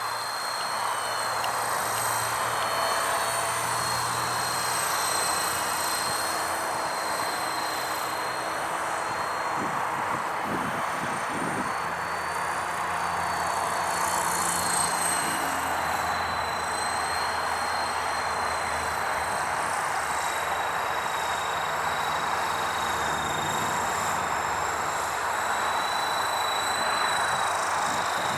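Remote-controlled helicopter's electric motor and rotor running steadily in flight: a continuous rushing hum with a high, slightly wavering whine.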